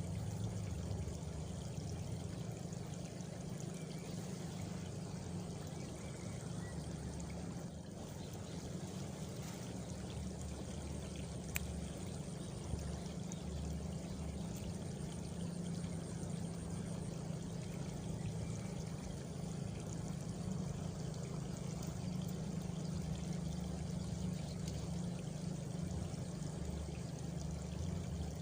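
Steady flowing water, like a stream or trickle, running evenly throughout. A faint high cricket trill comes in for a few seconds near the middle.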